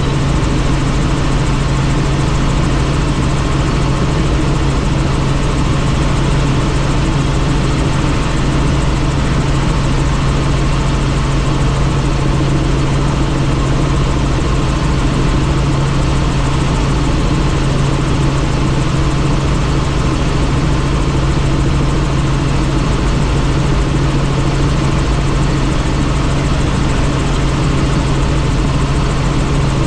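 Helicopter in flight, heard from inside the doors-off cabin: a steady, loud drone of turbine and rotors with a constant low hum and wind rush.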